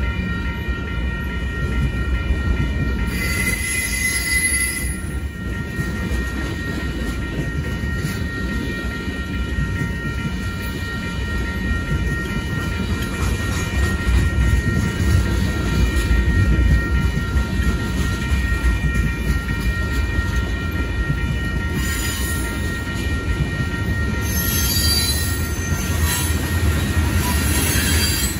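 Freight cars rolling past over a grade crossing, container well cars and then tank cars, with a steady low rumble of wheels on rail. Brief high-pitched wheel squeals come about three seconds in and again near the end. The crossing bell rings steadily throughout.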